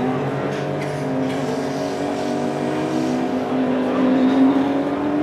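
Porsche 911 GT1's 3.2-litre twin-turbo flat-six idling steadily in the stationary car. The note rises a little and grows slightly louder about four seconds in.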